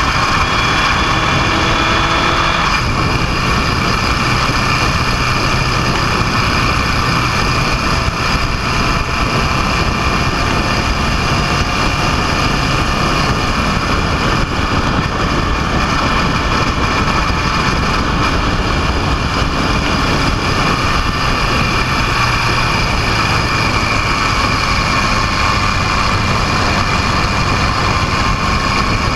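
A vehicle engine running steadily under a constant loud rushing noise, its pitch drifting slightly up and down with no clear stops or changes.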